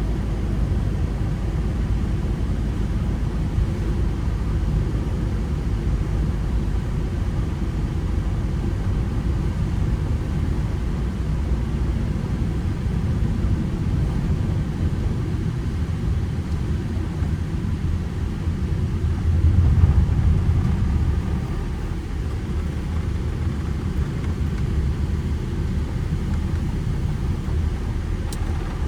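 Ford Transit Connect van driving, its petrol engine and road noise giving a steady low rumble that swells briefly about two-thirds of the way through.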